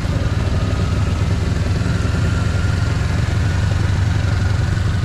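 Motorcycle engine running steadily while riding, a constant low hum under an even wash of road and air noise.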